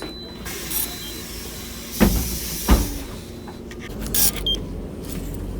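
A road vehicle running with a steady rumble, with two sharp knocks about two seconds in, under a second apart.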